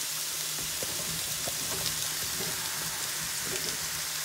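Acorn squash pieces sizzling in a preheated cast iron pan: a steady hiss with a few faint crackles, over a steady low hum.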